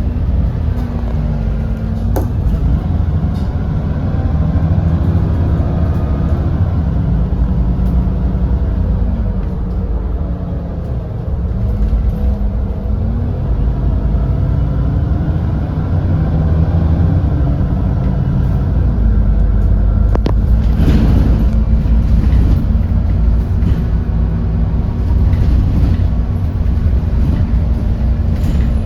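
Interior sound of an Edison Motors Smart 110G city bus's GX12P natural-gas engine under way, with a ZF automatic gearbox. The engine note climbs and drops back several times with speed and gear changes. A brief clatter comes about two-thirds of the way through.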